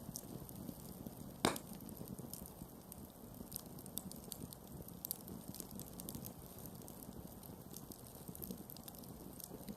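Wood campfire burning with a low steady rush of flame and scattered sharp crackles and pops, one louder pop about one and a half seconds in.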